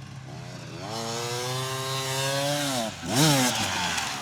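Dirt bike engine revving: the revs climb about half a second in and are held high for around two seconds, drop away, then a sharp blip of throttle just after three seconds, the loudest moment, before settling back.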